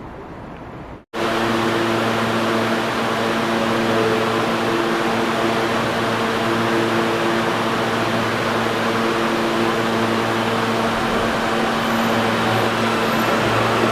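Steady machine hum with a hiss, starting abruptly about a second in after a brief dropout, and running at an even level.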